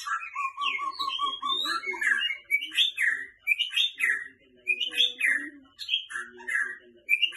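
White-rumped shama singing: a run of quick, even notes on one pitch, then varied phrases of loud whistles that slide up and down.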